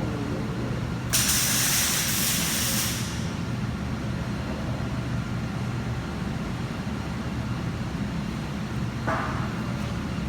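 A welding arc sizzling in one burst of about two seconds, a short tack or stitch weld on thin sheet metal, over a steady low hum. A weaker, shorter hiss comes near the end.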